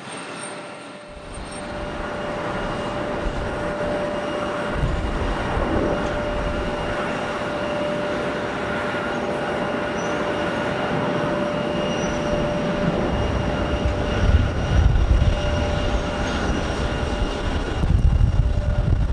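Jet airliner engines running with a steady whine over a wide rush. The sound grows louder in the first couple of seconds, and a deep rumble builds and surges near the end.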